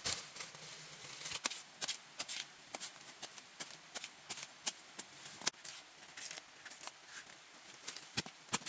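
Irregular light clicks and knocks, a few a second, some sharper than others.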